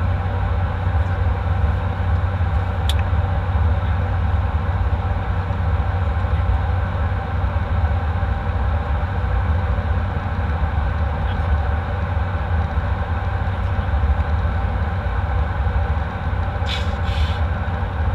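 Steady low rumble inside an airliner cabin with the engines running, with a sharp click about three seconds in and two short knocks near the end.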